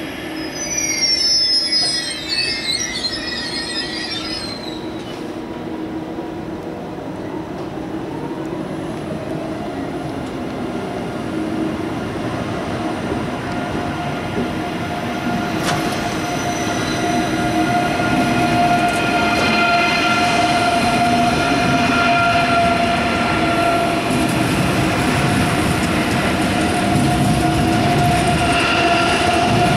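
ICE 3 high-speed electric train departing: high wheel squeal for the first few seconds, then the steady whine of its traction equipment over rolling noise, growing louder as the train pulls away.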